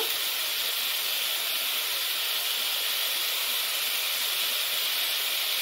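Onions and ground spices frying in hot oil in an iron wok: a steady, even sizzle with no stirring.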